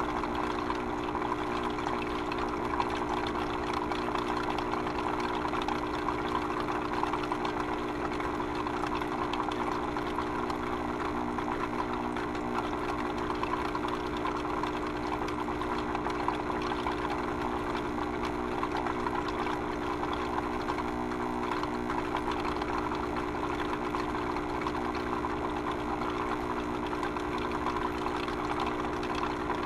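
A steady machine drone: a constant hum with a rushing hiss over it, unchanging throughout.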